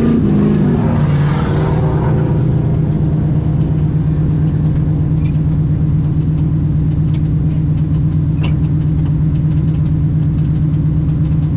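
A car engine running at a steady speed, a constant even hum, with a brief click about eight and a half seconds in.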